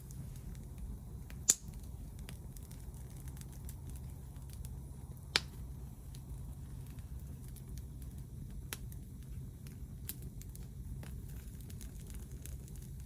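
Wood fire crackling, with scattered small clicks and two sharp pops, one about a second and a half in and a louder-looking one about five seconds in, over a low steady rumble.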